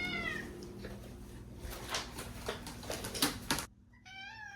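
Domestic cat meowing twice in reply: a short call that rises and falls at the start, and a second, quieter one about four seconds in. A few soft clicks fall in between.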